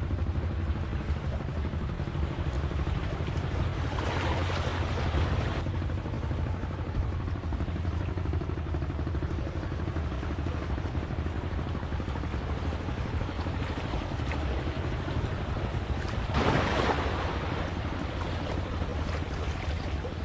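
Wind rumbling on the microphone over the wash of surf, with two louder rushing swells: one about four seconds in and one near the end.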